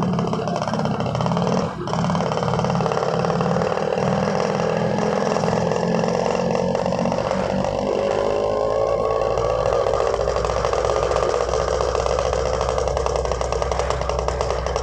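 Suzuki RC 100's single-cylinder two-stroke engine running while the motorcycle is ridden. It drops out briefly about two seconds in, then its pitch climbs steadily as it accelerates.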